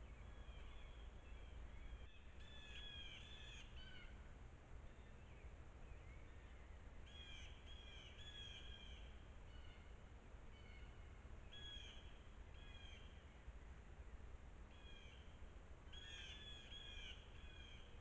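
Faint bird calls outdoors: short, repeated notes in runs of three to five, coming every few seconds, over a steady low background rumble.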